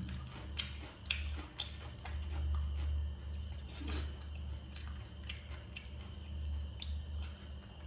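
A person chewing crispy masala-fried rohu fish, with scattered small crackles of the fried crust as the pieces are pulled apart, over a low hum that swells and fades.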